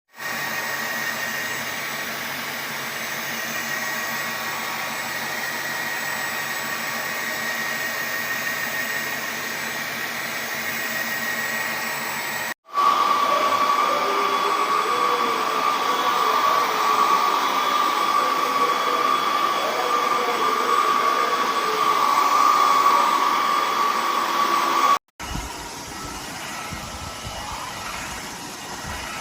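Cordless wet-and-dry vacuum mop running with a steady whining hum. It cuts off abruptly twice and comes back each time: first louder with a higher, stronger whine, then quieter near the end.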